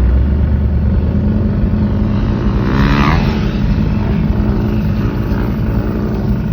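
A motor vehicle's engine running steadily, with a brief hissing burst about three seconds in.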